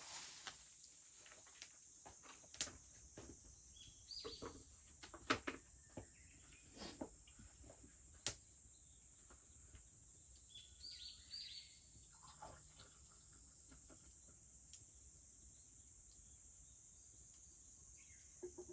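Steady high drone of cicadas, with the scattered sharp snaps and crackles of a wood bonfire and two short bursts of bird calls, about four seconds in and again near the middle.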